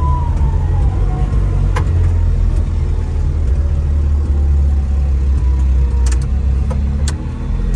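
Small mini-truck engine running with the choke on, a steady low rumble, with a few sharp clicks.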